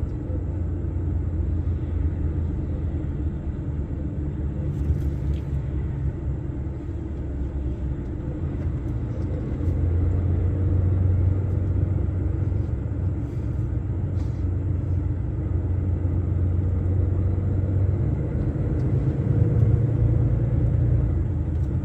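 Truck engine and road noise heard from inside the cab while cruising: a steady low drone that swells about halfway through and again near the end.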